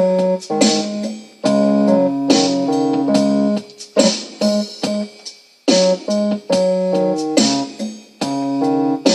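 Electronic keyboard with a piano sound playing chords, each struck together and held, with short breaks between them.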